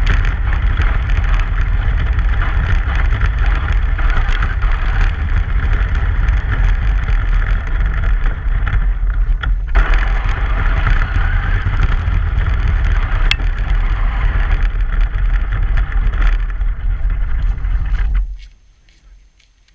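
Truck driving on a snowy road: a steady, loud rumble of driving noise that drops away sharply near the end.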